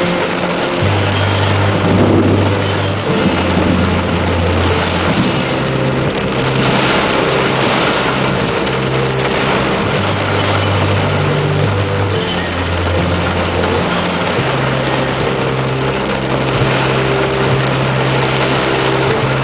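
Heavy rain as a dense, steady hiss, over low sustained synthesizer-like notes that step to a new pitch every second or two.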